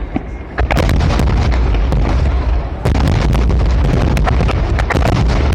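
Aerial fireworks shells bursting in a dense rapid barrage: overlapping booms and sharp pops over a continuous low rumble. It thins briefly about half a second in and again near the three-second mark.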